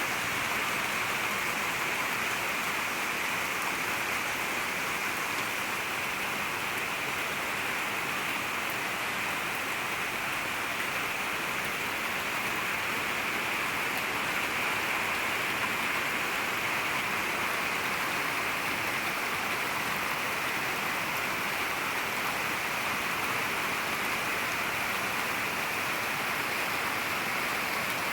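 Heavy rain falling in a rainstorm: a dense, steady hiss of rain that keeps an even level throughout.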